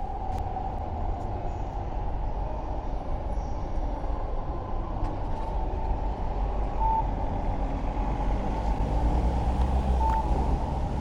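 Low wind rumble on a bicycle-mounted camera's microphone, mixed with road and traffic noise during a ride. Two short high beeps come about three seconds apart in the second half.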